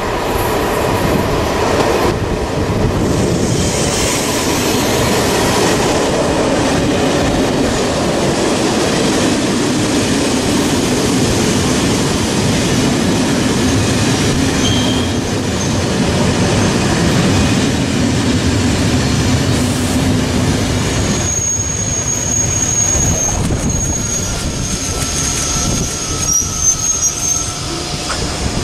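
SNCF passenger train of Corail coaches rolling along the platform, a loud steady rumble of wheels on rail. About two-thirds of the way through, a high-pitched wheel squeal sets in as the train slows, which continues to the end.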